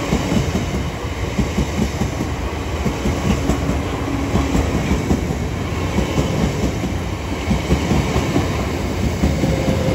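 Class 465 Networker electric multiple unit running through, its wheels clattering rapidly over rail joints and pointwork.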